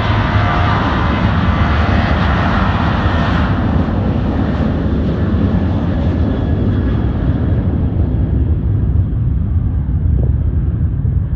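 Boeing 737-800 jet airliner taking off and climbing away, its CFM56-7B engines at takeoff thrust. A loud, steady roar with a faint whine at first; the hiss and whine fade from about four seconds in, leaving a low rumble.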